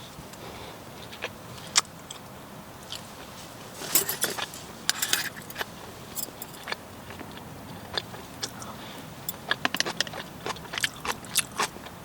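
Scattered clicks and scrapes of lunchbox containers and utensils being handled as someone eats a packed meal, with short clusters of clatter about four seconds in and again near the end.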